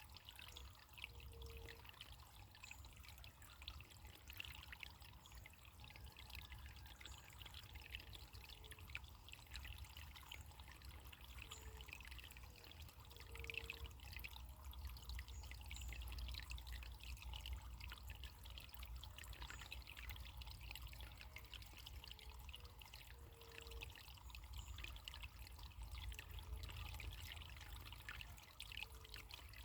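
Faint trickling of a small stream of running water, steady and unbroken, with a low rumble underneath.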